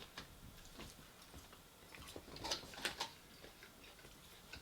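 A person chewing and biting soft battered onion rings close to the microphone: quiet, wet mouth clicks and smacks, with a louder run of them between about two and three seconds in.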